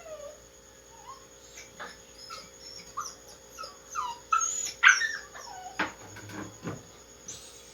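A dog whimpering and whining in short, high-pitched cries that slide up and down, with a couple of sharp knocks near the end.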